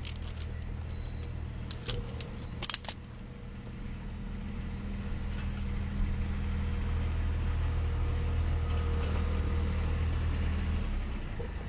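Metal climbing hardware clinks and jangles a few times, then a steady low engine drone grows louder, holds, and fades away near the end.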